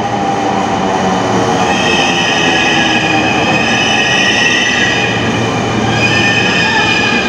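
A Dhaka Metro MRT Line 6 train running at a station platform. High, steady squealing tones ride over a rumble of wheels on rail. The sound cuts off abruptly at the very end.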